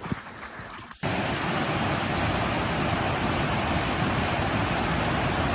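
Loud, steady rushing of fast-flowing mountain water, starting abruptly about a second in after a few faint clicks.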